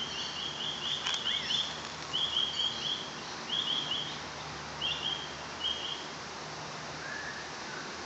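A bird singing: five bursts of quick, high, evenly spaced chirps, each burst shorter than the one before, with a faint lower call near the end.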